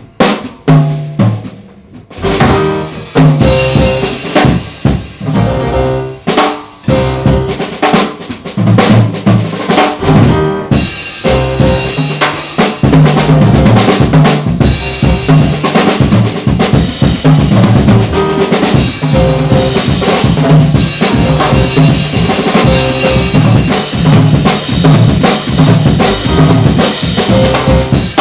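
Jazz drum kit playing on its own, a drum solo: bass drum, snare, rimshots and cymbals. It breaks off briefly a few times in the first seconds and once about ten seconds in, then plays on without a break.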